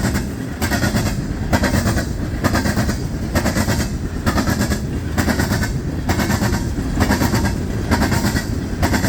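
A CSX coal train's cars rolling past, their steel wheels clacking over the track in a steady rhythm of about two knocks a second over a continuous rumble.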